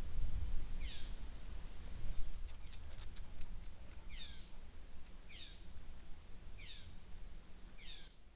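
A bird calling outdoors: a short, high call that slides downward, given five times at irregular intervals of one to one and a half seconds. A low rumble runs underneath, with a few sharp clicks about two to three seconds in.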